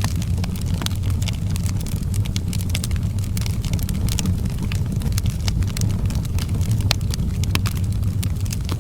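Outdoor fireplace fire crackling: frequent sharp, irregular pops and snaps over a steady low rumble of burning.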